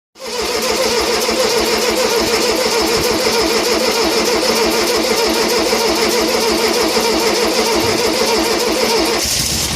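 A 1600cc AS engine being cranked by its starter for about nine seconds on its first start, with a rhythmic pulsing as it turns over. Near the end it fires and begins running with a lower rumble.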